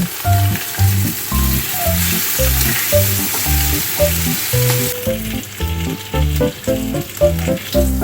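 Food sizzling in a hot frying pan, a loud steady hiss that stops about five seconds in, over background music with a steady beat.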